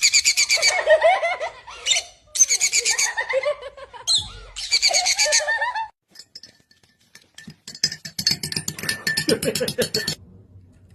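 High-pitched laughter in several bursts over the first six seconds, then a fast, pulsing run of cackling laughter a few seconds later.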